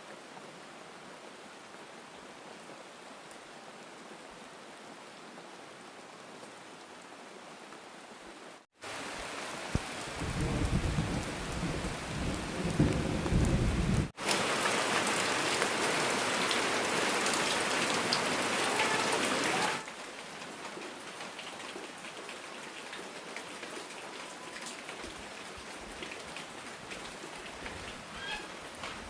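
Heavy rain pouring down steadily, its level jumping abruptly a few times. A loud low rumble, like rolling thunder, runs through the middle stretch.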